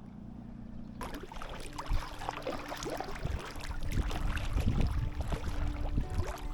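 Kayak paddling on a lake: water splashing and trickling off the paddle blades with each stroke. It starts suddenly about a second in and grows louder in the second half.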